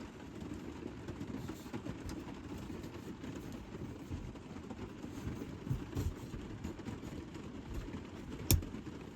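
Light rain falling on a truck camper's roof, heard from inside as a steady, dull patter with scattered louder drops. One sharp tap stands out near the end.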